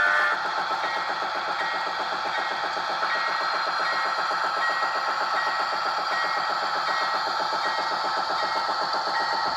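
Sound decoder in a Rapido RDC model rail diesel car playing its diesel engine sound through the model's small speaker, a steady fast rhythmic chugging. A louder chord of tones cuts off just after the start.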